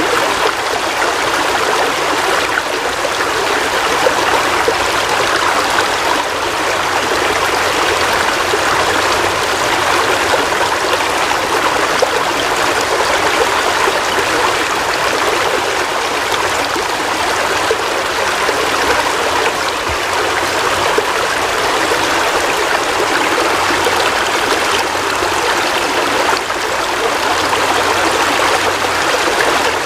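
Heavy rain falling steadily: a dense, even hiss that neither lets up nor changes.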